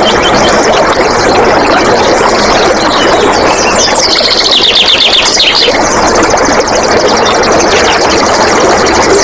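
Flowing, splashing water runs steadily and loudly, with a wild bird's rapid trill of fast repeated high notes about four seconds in.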